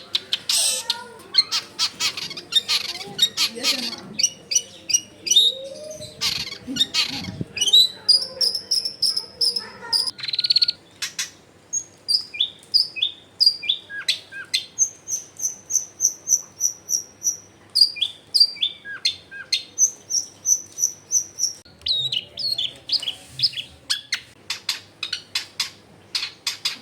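Long-tailed shrike (cendet) singing a busy, varied song of harsh rapid chatter and clicks, broken by runs of repeated high whistled notes at about three a second.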